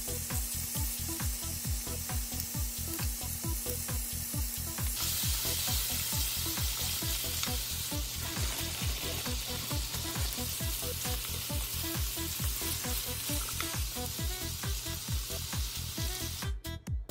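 Sliced pork and rice cakes sizzling in a hot frying pan, the hiss getting louder about five seconds in, over background music with a steady beat.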